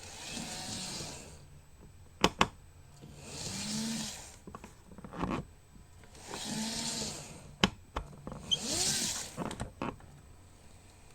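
Model train packaging being handled: four soft sliding, rustling swishes about a second long with faint squeaks, between sharp plastic clicks.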